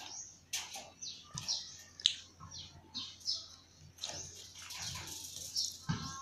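Birds chirping: many short, high chirps in quick succession.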